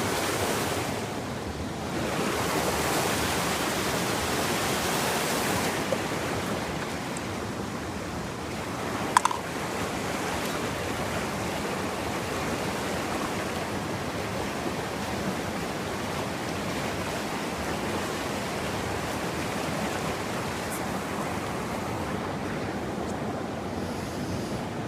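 Steady rushing of creek water, with a single short metallic clink about nine seconds in.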